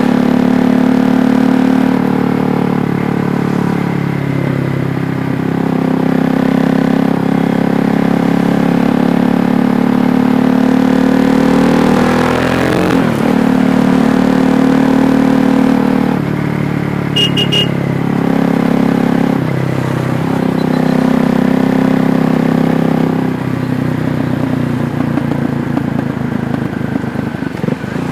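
A KTM Duke 390's single-cylinder engine running while riding, its note stepping up and down several times as the rider works the throttle and gears. A brief high beep sounds about two-thirds of the way through. Near the end the engine note drops quieter and rougher.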